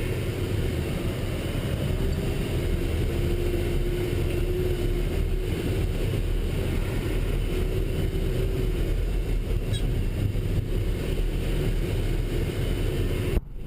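Military truck driving, with steady engine and road rumble and a faint steady hum, cutting out briefly near the end.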